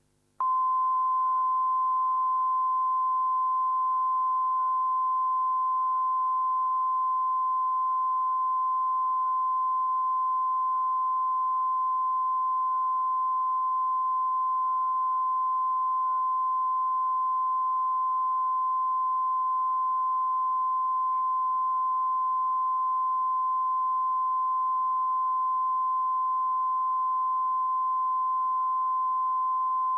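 Television broadcast test tone: one steady, unchanging pure tone that starts suddenly about half a second in. It is the kind of line-up signal a channel transmits once programming has stopped.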